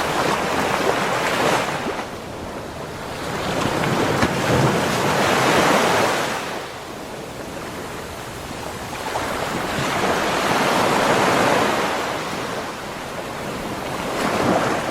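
Ocean surf breaking on a beach shore, each wave swelling into a rushing wash and then ebbing, about every four to five seconds.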